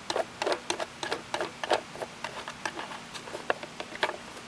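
Irregular light clicks and knocks, a few a second, as the air filter cover of a riding lawn tractor is fitted back on and screwed down.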